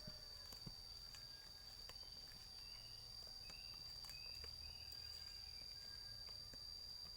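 Quiet outdoor ambience: a steady high-pitched insect drone, a few faint short chirps around the middle, and scattered soft clicks.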